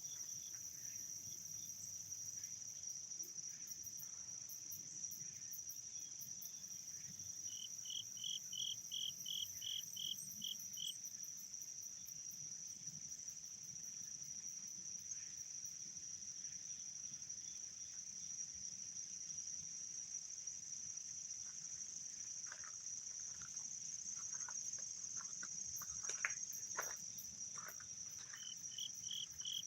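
Steady, high-pitched chorus of crickets and other insects. Twice a quick run of about eight evenly spaced short notes rings out over it, and short sharp bird calls come in scattered near the end.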